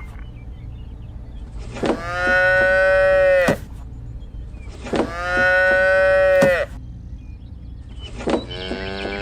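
A cow mooing three times, each moo one long steady call of about a second and a half, about three seconds apart, the last one quieter, over a steady low hum.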